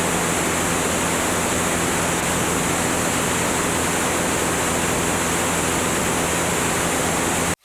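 Cessna 205 in flight: a steady rush of wind noise with the low drone of its engine and propeller underneath. It cuts off abruptly at the very end.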